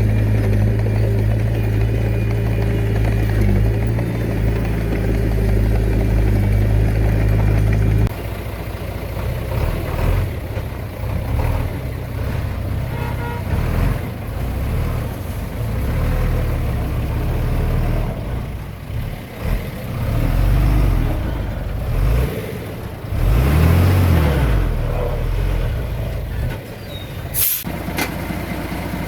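Diesel engines of a small bulldozer and a dump truck at work. A steady drone for the first eight seconds or so, then an uneven engine sound that rises and falls under load, with a short sharp hiss near the end.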